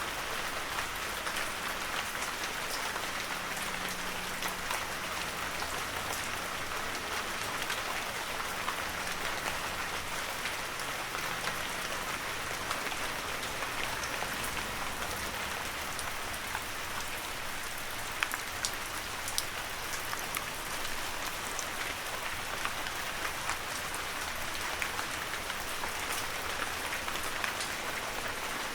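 Heavy rain falling steadily in a forest: an even dense hiss peppered with individual drops, a few louder drop hits about eighteen seconds in.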